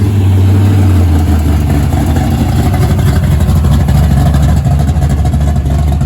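A car engine running close by with a loud, steady, deep rumble, its pitch rising slightly about a second and a half in.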